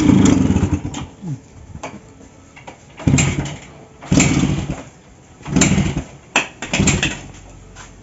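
Suzuki Samurai's two-stroke single-cylinder engine being kicked over about five times. Each kick gives a short burst of engine noise that dies away again: the engine is not catching on the freshly fitted carburettor, and the choke is needed.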